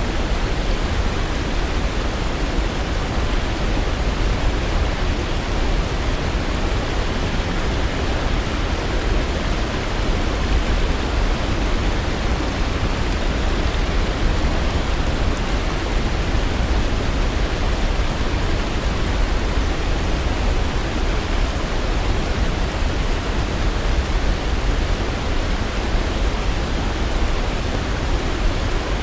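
Waterfall: a steady, even rush of falling water, heaviest in the low rumble and unchanging throughout.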